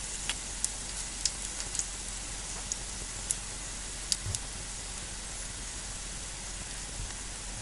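Pelmeni frying in oil in a pan: a steady sizzle with scattered sharp pops of spitting oil, most of them in the first half.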